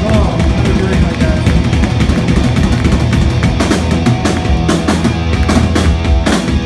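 Loud heavy rock music with a full drum kit, the drums and cymbals hitting hard two or three times a second from about halfway through.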